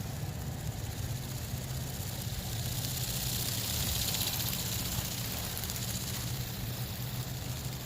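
Go Go Bird toy ornithopter in flight, its small electric motor and flapping wings giving a steady low buzz with a hiss that swells to a peak about four seconds in as it passes closer. Its battery is nearly flat.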